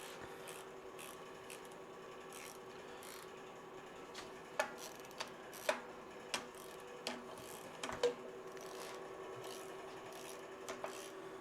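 Hand wrench working the cylinder-head nuts on an Allis-Chalmers C engine, snugging them down: scraping strokes with a scatter of sharp metal clicks, most of them in the middle of the stretch.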